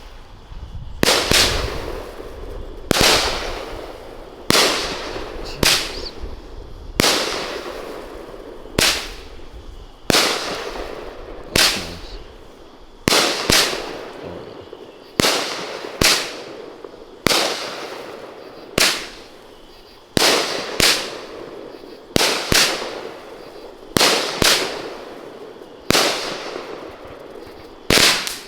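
Pyro Diablo "Pound for Pound" firework cake firing, its shells bursting in the air with a loud bang about once a second, each bang echoing and fading before the next.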